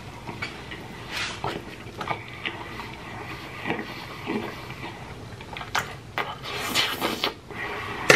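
Close-up wet chewing of a large mouthful of sauce-covered fries: irregular smacks, squelches and clicks of the mouth, with the loudest smack near the end.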